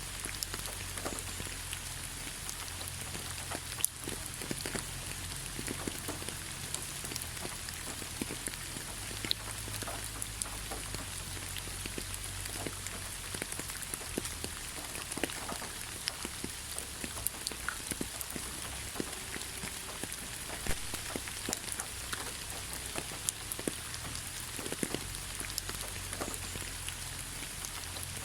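Steady rain falling, with many separate drops ticking irregularly over a constant hiss and a faint low rumble underneath.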